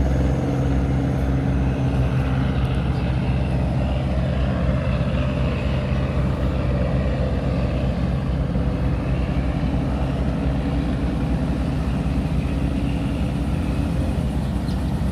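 Tugboat engine running steadily, a constant low hum.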